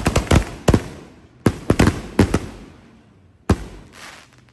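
Fireworks exploding: quick runs of sharp bangs, each dying away over about a second. A cluster comes at the start, another about a second and a half in, then a single bang about three and a half seconds in.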